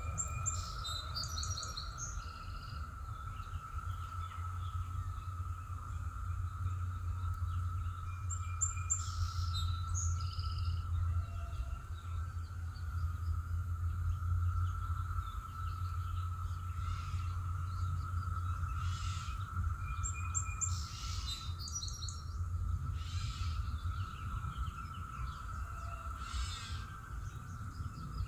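Birds chirping in a few short bursts of calls, over a steady high-pitched drone and a constant low rumble.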